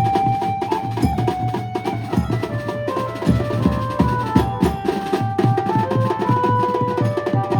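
Maharashtrian banjo band playing loudly: an amplified banjo carries a melody of held notes that step up and down, over fast, dense drumming with a heavy bass drum.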